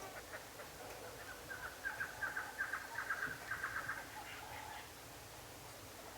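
Bird calling in a rapid series of short, clipped notes, about six a second, from about a second in for some three seconds, with fainter lower calls around it.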